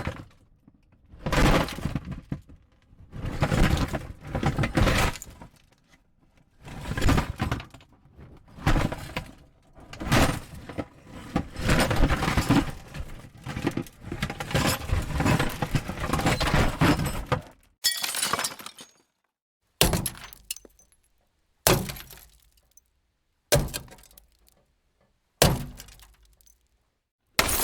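A series of crashing, breaking impacts, a second or so each and bunched close together in the middle. Then come five short, sharp hits about two seconds apart, each dying away quickly.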